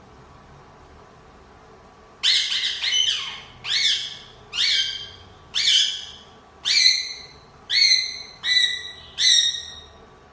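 Parrot squawking: a run of about eight loud calls, each under a second apart, starting about two seconds in.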